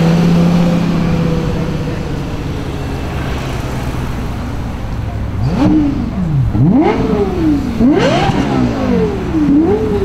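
Lexus LFA's V10 engine holding a steady note that fades off in the first couple of seconds, then, about halfway through, revved in four quick throttle blips, each snapping up in pitch and dropping straight back.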